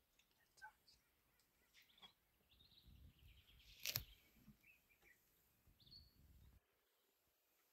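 Near silence with faint, scattered bird chirps and a single sharp click about four seconds in.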